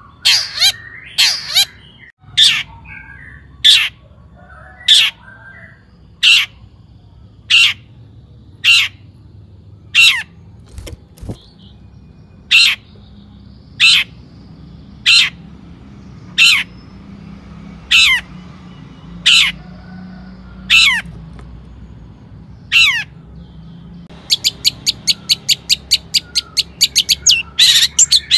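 Long-tailed shrike (cendet) calling: loud, harsh, downward-sweeping calls repeated about every second and a quarter. Near the end it breaks into a fast chatter of short notes, about seven a second.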